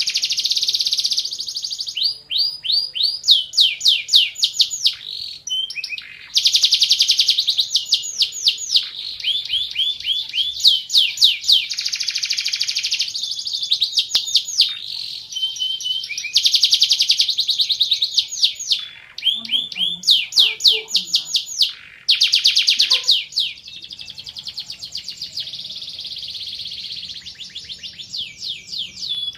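Van Hesterling canary singing a long, continuous song of rapid trills: each phrase is a fast run of repeated high sweeping notes, switching to a new phrase every second or two with only brief pauses.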